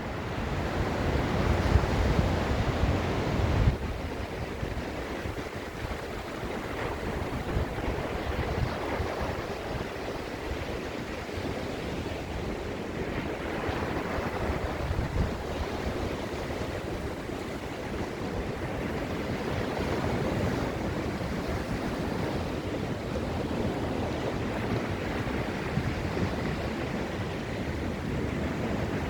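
Gulf of Mexico surf breaking on the beach, a continuous rushing wash that swells and eases. It is louder for the first few seconds, with a deep low rumble that stops abruptly.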